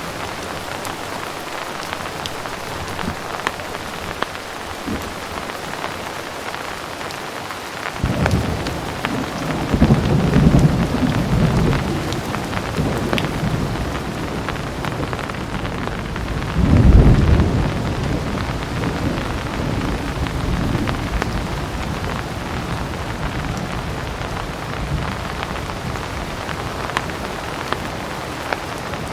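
Heavy rain falling steadily with scattered drops ticking. About a third of the way in, thunder starts rumbling and swells again past the middle, then slowly fades under the rain.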